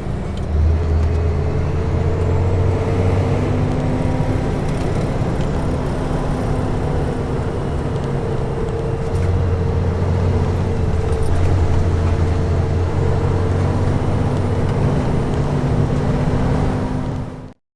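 Scania R420 truck's diesel engine running under load, a steady low drone that grows heavier twice, for a few seconds near the start and again in the middle. The sound cuts off abruptly near the end.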